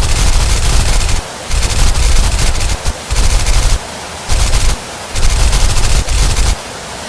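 Car wash water jets spraying: a loud rushing, crackling noise with a low rumble that cuts in and out in bursts of about a second.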